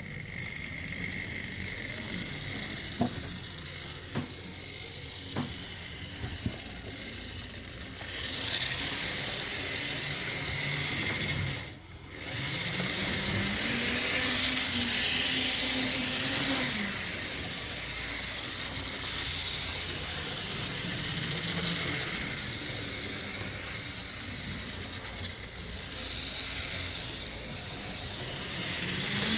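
Jouef HO-scale model electric locomotive (SNCF CC 6505) running on track, its small electric motor and gearing whirring steadily. A few sharp clicks come in the first several seconds; near the middle the sound briefly drops out, then the motor picks up again with a rising, then falling whine.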